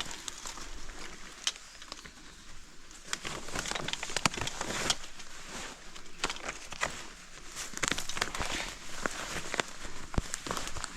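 Footsteps crunching through dry leaf litter and brush, an irregular run of crackles and rustles.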